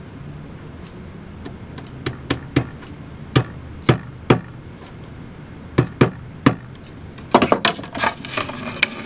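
Small hammer tapping in tacks: sharp single taps in small groups, then a quicker run of knocks near the end.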